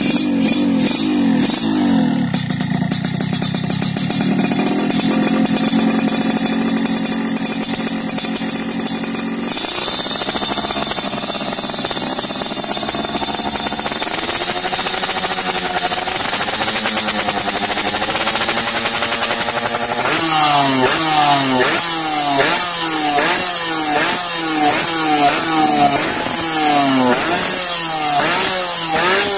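Yamaha RX-King two-stroke single-cylinder motorcycle engine running through an aftermarket under-body expansion-chamber exhaust: a steady idle, then gently wavering revs, and from about two-thirds in, repeated quick throttle blips about once a second, each falling back toward idle.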